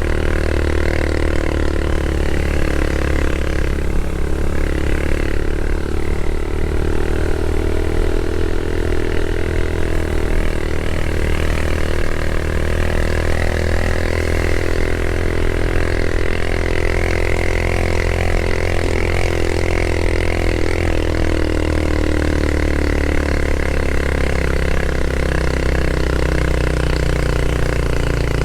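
Motorcycle engine running steadily while riding, its pitch drifting slowly up and down with engine speed.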